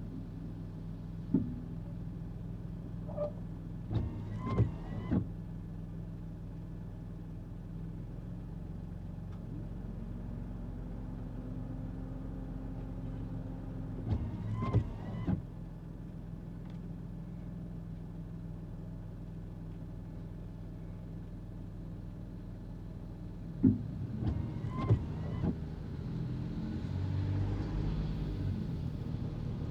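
Kei car running along a road, heard from inside the cabin: a steady engine and road drone, its pitch rising slightly about ten seconds in. Short clusters of knocks and rattles come roughly every ten seconds, three times.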